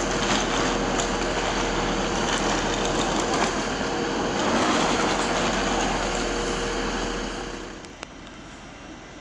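Electric train running close by: a steady rushing noise with a faint steady hum, which drops away sharply about eight seconds in to quieter station background.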